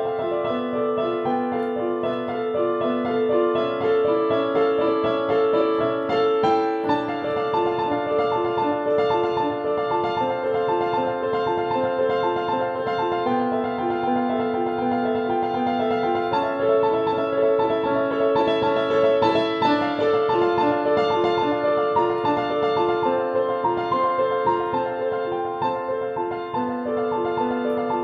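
Solo piano playing a slow, flowing classical piece, notes following one another in a continuous, repeating pattern at an even volume.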